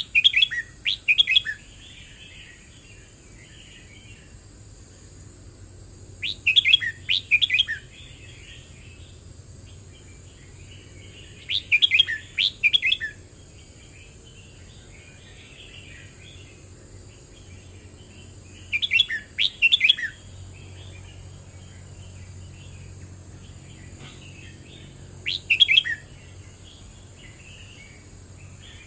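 Red-whiskered bulbul singing, five short bright phrases of several quick warbled notes, one about every six seconds, with fainter twittering between the phrases.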